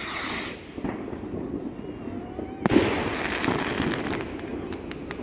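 Fireworks going off: a hissing burst at the start, then a sharp bang about two and a half seconds in, followed by a crackling hiss that fades over about a second, with scattered small cracks afterwards.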